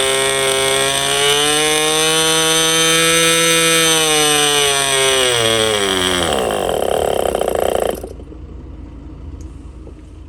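Enya .15CX two-stroke glow engine running at high revs on the bench. Its pitch rises a little, then falls as it winds down, turning ragged, and it stops abruptly about eight seconds in.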